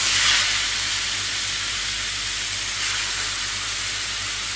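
Whole pigeons sizzling as they sear in a frying pan of hot oil and butter: a steady frying hiss, a little louder at the very start.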